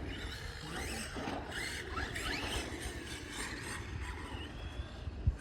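Electric motor of a radio-controlled vehicle whining, rising and falling in pitch several times as it revs, over a low rumble.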